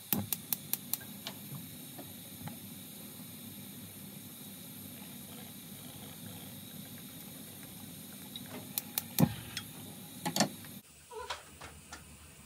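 Steady hiss with a scatter of light clicks and knocks, several close together at the start and a louder cluster around nine to ten seconds in; the hiss drops away abruptly near the end, leaving a few soft knocks.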